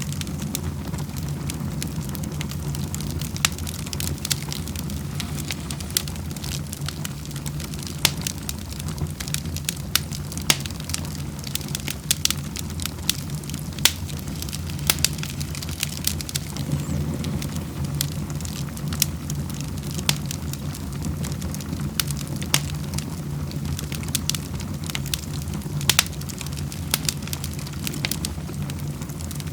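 Wood fire crackling in a fireplace: irregular sharp pops and snaps, several a second with louder ones every second or two, over a steady low rumble.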